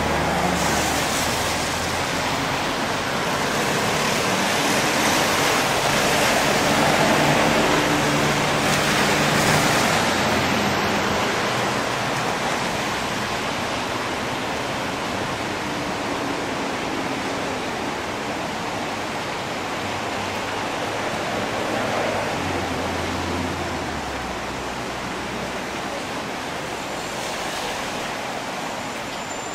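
Steady hiss of falling rain, swelling and easing slowly. A low rumble of traffic runs under it at times.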